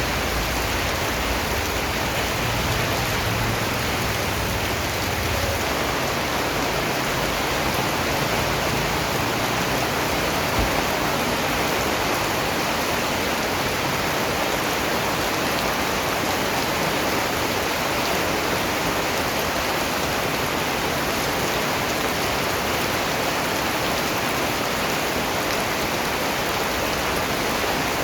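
Steady rain falling: an even, continuous hiss of raindrops on surfaces.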